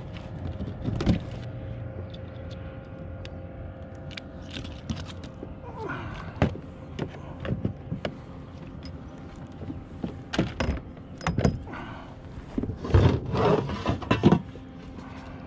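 Irregular knocks, clicks and scrapes as a freshly landed flathead and fishing gear are handled on a kayak, busiest in a cluster of sharp knocks near the end.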